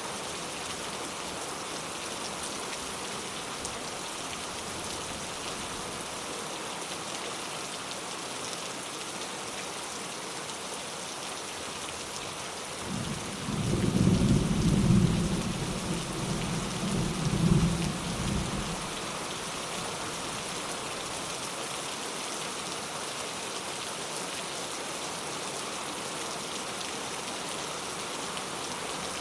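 Steady rain falling, with a low rumble of thunder about halfway through that swells twice and dies away over about six seconds.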